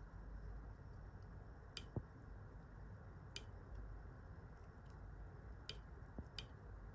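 A few faint, sharp clicks and one soft knock from small fly-tying tools handled at the vise while a hackle is being wound, over a low steady room hum.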